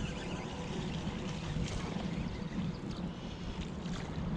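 Wind buffeting the microphone in a steady, gusting low rumble, with rushing, sloshing water.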